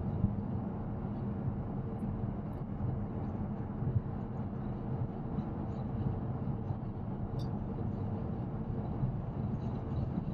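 Steady road and tyre rumble inside the cabin of an electric Tesla Model X Plaid cruising on the freeway at about 80 mph.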